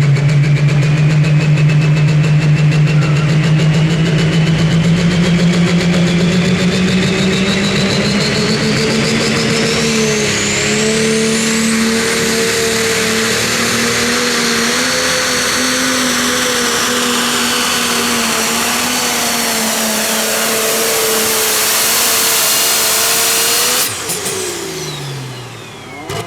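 Pro Stock pulling tractor's turbocharged diesel engine at full throttle under load, with a high turbo whistle climbing over the first ten seconds or so and the engine note rising and then holding hard. About 24 seconds in, the throttle comes off and the turbo whine falls away.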